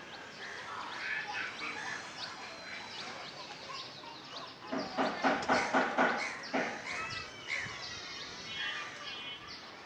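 Birds chirping throughout, with a loud run of about six harsh, evenly spaced calls a little after halfway through.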